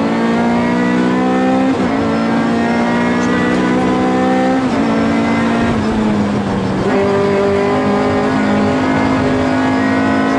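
Honda Civic rally car's engine heard from inside the cabin, driven hard at high revs, with road noise beneath. Its steady note breaks briefly a few times as gears are changed.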